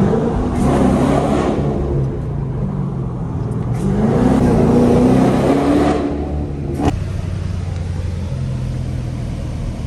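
Straight-piped Dodge Durango R/T V8 exhaust accelerating in two loud pulls, the second rising in pitch, then settling into a steadier drone, with a brief sharp click about seven seconds in.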